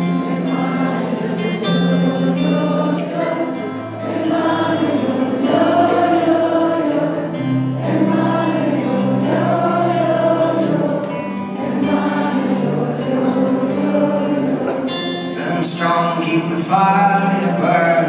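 Live concert music: many voices singing together in long held, wordless notes over a steady low drone.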